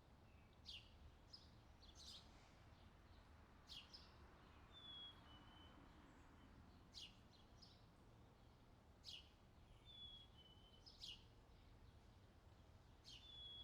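Faint bird chirps: short, sharp notes every second or two, with a few brief whistled notes among them, over a low steady rumble.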